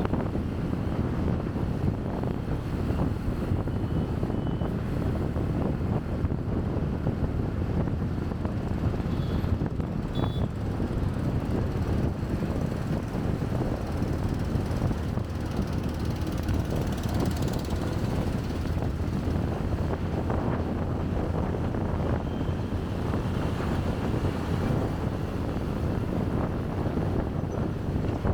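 Wind buffeting a chest-mounted camera microphone on a bike riding through city traffic, with steady low road and engine noise. A few short high tones, like vehicle horns or beeps, sound at the start and again about nine and ten seconds in.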